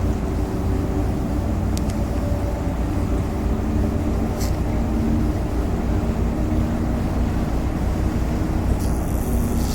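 Ferry Mishima's diesel engines running steadily as it leaves port: a constant low drone with a faint hum over it. A few faint ticks and a brief hiss near the end.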